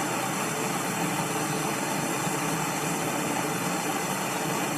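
Steady mechanical hum with an even hiss, unchanging throughout, like a motor or fan running.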